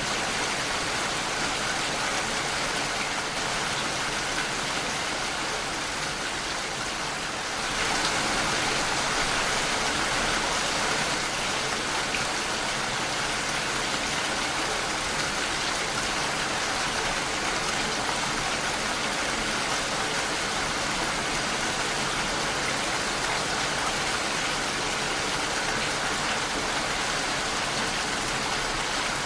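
Steady rain against a window pane: a dense, even hiss of drops with no distinct pattern. It turns a little louder and brighter about eight seconds in, then holds steady.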